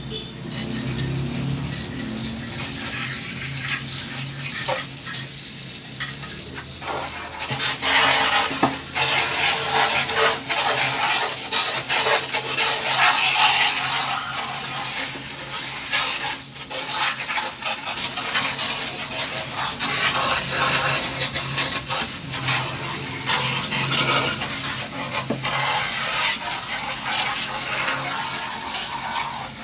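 Water spraying and spattering onto a window air conditioner unit being cleaned, a steady rough hiss over a low hum, growing louder and rougher about eight seconds in.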